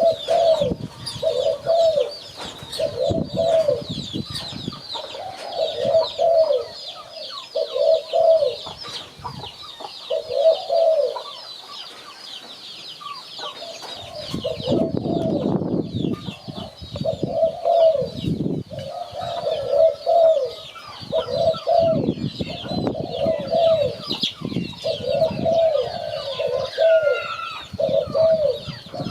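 Spotted doves cooing repeatedly in short groups of notes, with a pause of a few seconds near the middle. A continuous high chirping runs behind, and there is some low rumbling noise in the second half.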